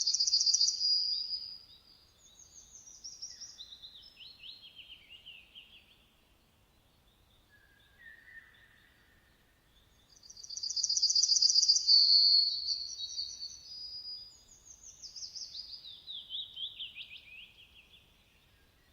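A songbird singing two phrases, one at the start and one about ten seconds in. Each phrase opens with a loud, fast, high trill and runs down through a series of falling trills. A short, quieter note comes between them.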